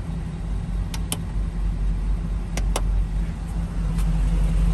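Hummer H2's V8 engine idling steadily, heard from inside the cab, with two pairs of sharp clicks, about a second in and again about two and a half seconds in, as the auxiliary light switches are flipped.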